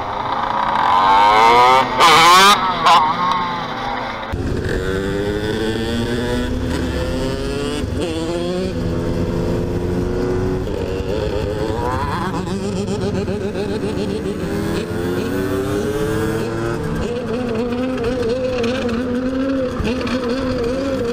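Small motorcycle engines being revved, the pitch sweeping up and down, with a loud noisy burst about two seconds in. After a sudden change at about four seconds, the engines run more steadily at riding speed, their pitch wavering gently.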